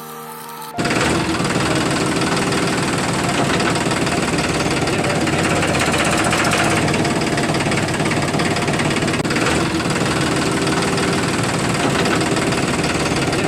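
A motor or engine running steadily with a dense rattling noise. It starts abruptly about a second in and runs on at an even level.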